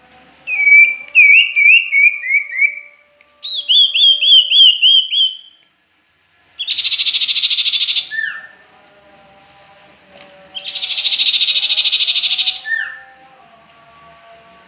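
Songbird singing, the birds named as sirtu and cipoh (common iora): a run of quick falling whistled notes, a second higher run, then two long buzzy trills about two seconds each, each ending in a lower slurred note.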